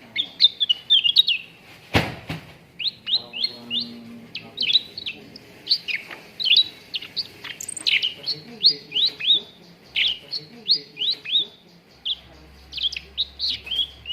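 Cucak ranting singing a fast, busy string of short sharp chirps and quick whistled notes, repeated with hardly a pause. There is one sharp click about two seconds in.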